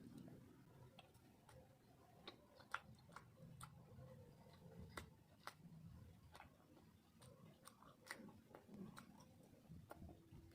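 Faint, irregular wet mouth clicks and smacks of a person chewing food close to the microphone, a few each second.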